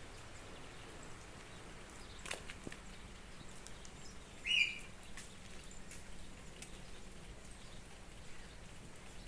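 Steady rain falling with a few light taps, and one short high chirp about four and a half seconds in.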